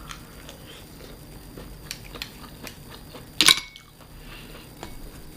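Eating utensil tapping and scraping against a dish, making scattered small clicks. A sharper clink about three and a half seconds in rings briefly.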